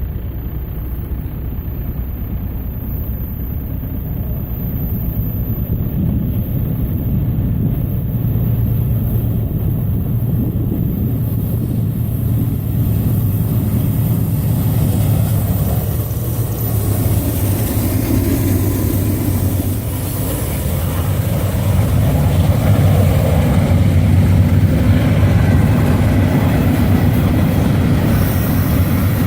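Freight train's diesel locomotives approaching, a steady low engine rumble that grows gradually louder, with more rail and wheel noise coming in about halfway through.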